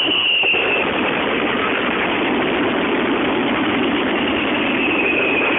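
Fireworks barrage heard through a mobile phone's microphone: a steady, dense wall of noise with no separate bangs standing out, and a faint falling whistle about the start and again near the end.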